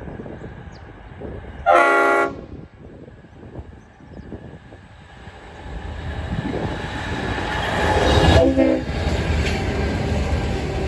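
Diesel locomotives of a grain train sound one short horn blast about two seconds in, then approach and pass with a rumble that builds to its loudest around eight seconds, where a second brief horn note sounds, and carries on as the wagons roll by.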